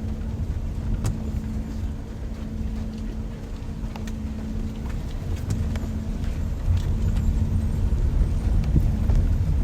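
Steady rain with scattered drops ticking, over a heavy low rumble and a faint steady hum.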